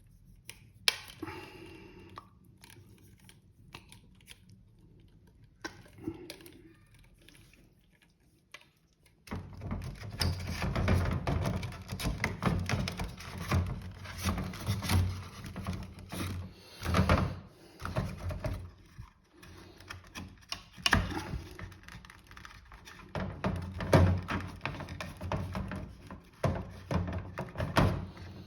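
Small plastic pump parts being handled and fitted together: a couple of isolated clicks, then, about a third of the way in, a busy stretch of knocks, taps and rubbing.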